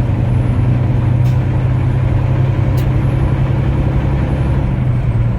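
Steady low drone of a semi truck's engine and road noise, heard from inside the cab while driving.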